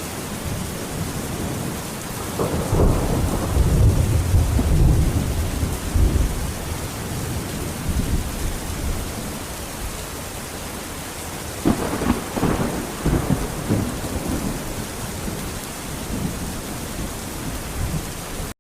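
Steady rain with thunder: a long low rumble from about two to six seconds in, then a sharper crack near the twelve-second mark that rumbles on for a couple of seconds.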